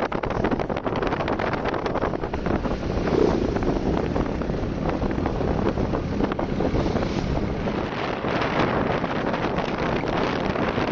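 Wind buffeting the microphone: a loud, continuous rough rumble with constant fluttering.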